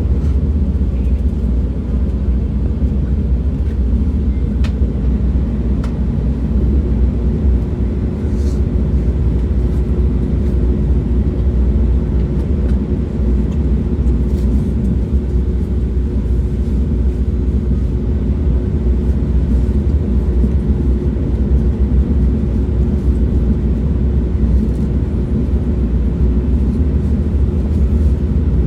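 Train running steadily, a deep continuous rumble, with a faint steady hum coming in about seven seconds in and a few light clicks.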